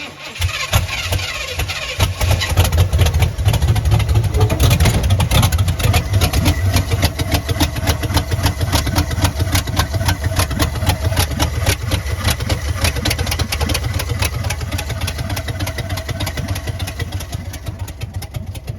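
350 V8 engine starting on gas poured into the carburettor: it cranks briefly, catches about two seconds in and runs loud and rough, then stops near the end. The uneven running is missing, which the owner puts down to the ignition timing being off.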